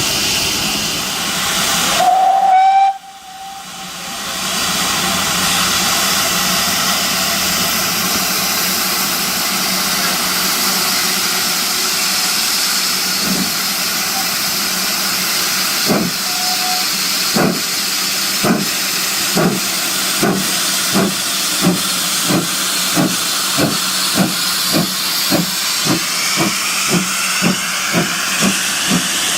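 Steam locomotive with steam hissing steadily and a short whistle a few seconds in. Then it starts away, its exhaust beats slow at first and quickening steadily.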